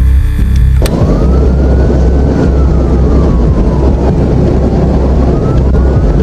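A police car siren wailing slowly up and down over loud road and engine noise from a patrol car driving fast. The noise and siren cut in about a second in, replacing a brief run of steady tones.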